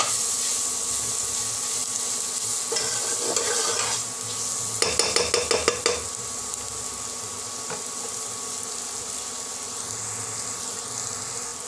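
Chopped onion and green chilli sizzling in hot oil in a non-stick pot while a spatula stirs and scrapes through them. About five seconds in there is a quick run of sharp clicks as the spatula knocks against the pot.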